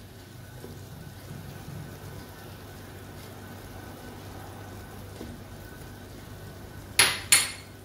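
Faint, steady sizzling of mutton trotters and masala frying in an aluminium pot over a low-to-medium flame. Near the end come two sharp knocks a fraction of a second apart: a spatula striking the pot.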